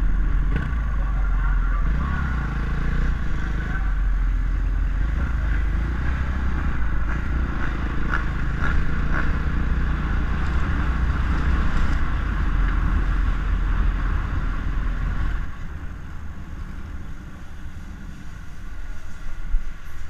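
KTM 450 SX-F four-stroke single-cylinder motocross engine running at low revs as the bike is ridden slowly, recorded from the rider's helmet. It drops to a noticeably quieter, lower note about fifteen seconds in.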